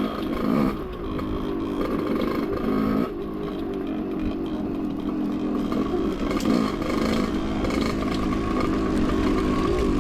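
Dirt bike engine running under way, with the revs rising and falling slightly as the rider works the throttle over rock.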